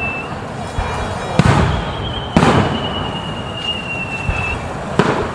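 Aerial fireworks shells bursting: three sharp booms with echoing tails, about a second apart and then a longer gap before the third. Between the first two and the last, a high whistle is held for about two seconds, drifting slightly down in pitch.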